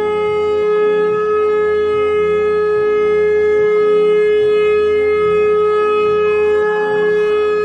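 A long, steady note held on a wind instrument, rich in overtones, over a low sustained drone with a soft pulsing layer underneath.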